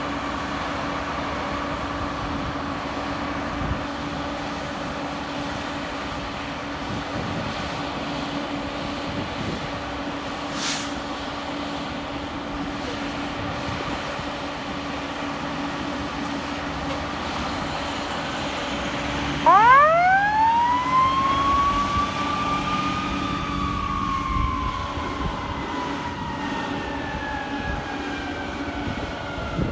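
Steady hum of idling traffic and engines, then about two-thirds of the way in a fire engine's siren winds up quickly to a high pitch and slowly falls away toward the end.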